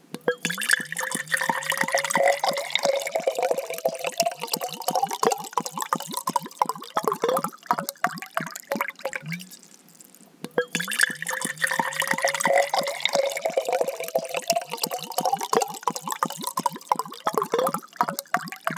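Water being poured into a container, splashing, with a rising pitch as the vessel fills. The pour is heard twice, with a short break just before the middle.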